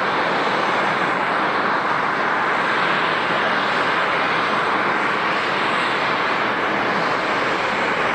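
Jet airliner engine noise, a steady rush that holds at one level throughout.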